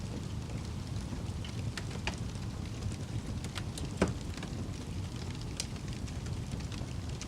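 Fire burning with a steady low rumble and scattered crackles, with one louder pop about four seconds in.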